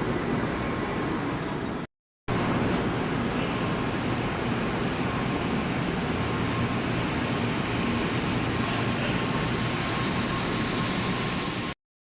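Steady running noise of a train, an even noise without pitch or rhythm, broken by a brief gap about two seconds in and cutting off abruptly near the end.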